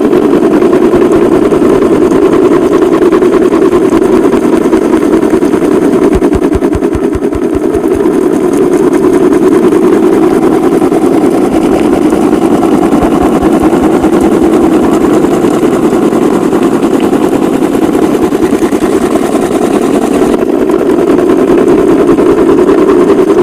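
Small DC hobby motor of a homemade toy tractor and water-pump model running steadily with a fast, buzzing rattle.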